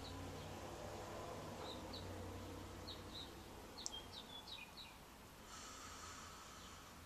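Faint birds chirping: scattered short high chirps, with a quick run of several chirps about four seconds in, over a steady low background hum.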